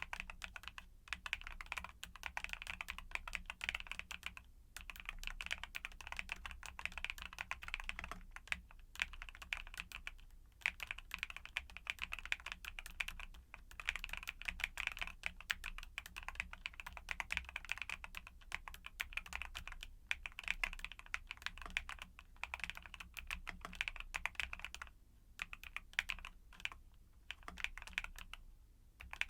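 Typing on a YUNZII mechanical keyboard with Cocoa Cream switches: a steady, fast run of key clacks, broken by a few brief pauses.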